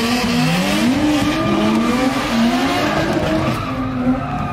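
A car engine revving repeatedly, its pitch rising and falling in long glides, over a steady hiss of tyre noise.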